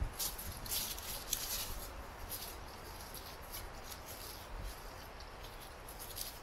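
Freshly lit campfire of bark and kindling crackling, with irregular sharp ticks and pops that are densest in the first couple of seconds.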